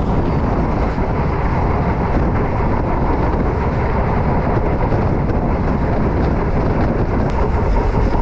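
Passenger train in motion: the steady rumble and rattle of the coach running along the track.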